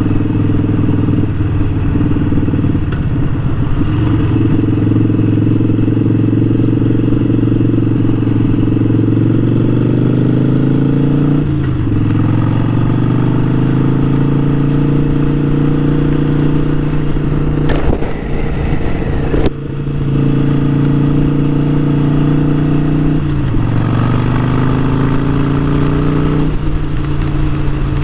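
Harley-Davidson Sportster 1200's air-cooled V-twin engine under way. It climbs in pitch, drops sharply at a gear change about twelve seconds in and holds a steady cruise. Near the end it drops again at a second shift and climbs.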